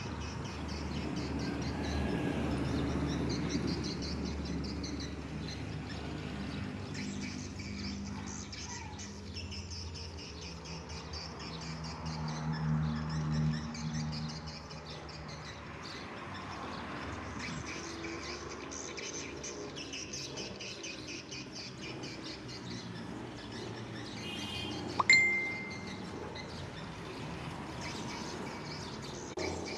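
Many swiftlets twittering with rapid high chirps throughout, over a steady low hum. A sharp click with a brief ringing tone stands out about 25 seconds in.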